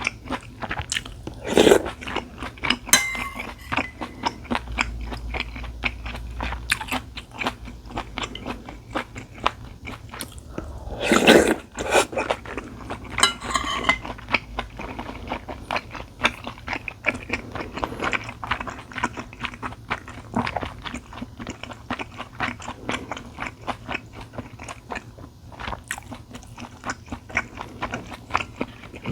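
Close-miked eating sounds of a person chewing food: a dense run of small clicks, with two louder, longer sounds about 2 seconds and 11 seconds in.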